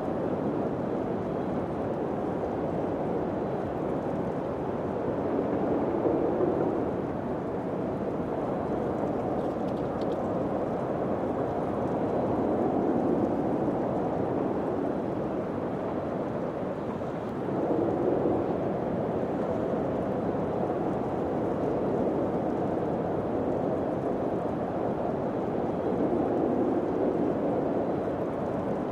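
Steady low wind blowing, swelling in slow gusts every several seconds.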